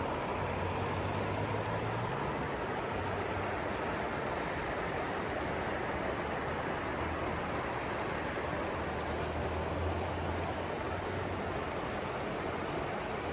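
The Narayani river's water rushing in a steady flow, with a low hum that comes and goes underneath.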